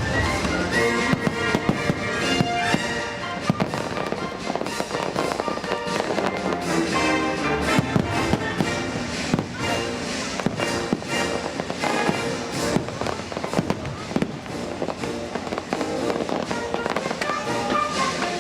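Fireworks bursting in rapid succession over the show's music, with many bangs and crackles throughout.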